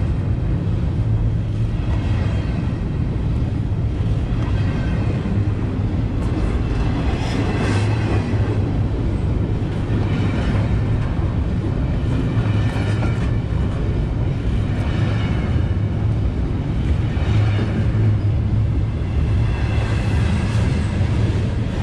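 Freight train cars rolling past close by, a steady rumble of steel wheels on rail from double-stack intermodal well cars and gondolas. A high squeal comes back every two to three seconds.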